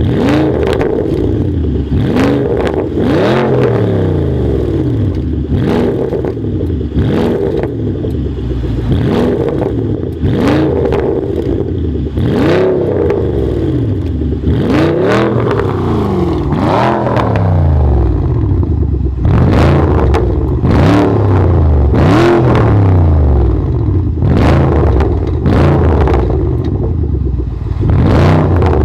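Porsche Panamera Turbo S twin-turbo V8 through a TechArt aftermarket exhaust, revved over and over in quick blips that rise and fall every second or two, with sharp crackles and pops between them.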